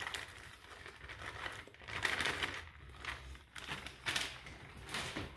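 Crinkling and rustling of the packaging as grated Parmesan cheese is shaken out over the pasta, in several short bursts, loudest about two seconds in.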